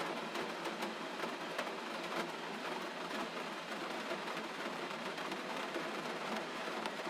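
Steady rain falling: an even hiss, thick with many small drop taps and patters.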